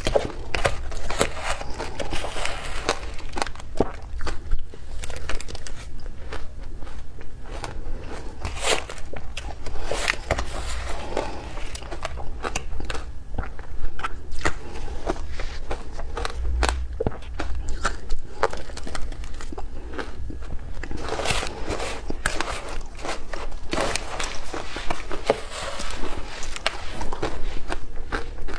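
Frozen matcha ice being bitten and chewed: a continuous run of sharp, irregular cracks and crunches.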